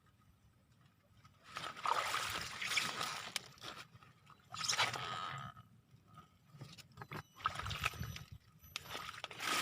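Water splashing and sloshing in three bursts of a second or two each, with quiet gaps between.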